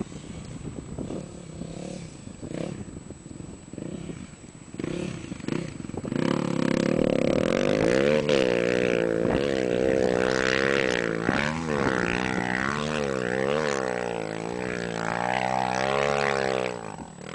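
Honda XR 250 Tornado single-cylinder dirt bike engine, faint for the first few seconds, then loud from about six seconds in, revving up and down repeatedly before falling away near the end.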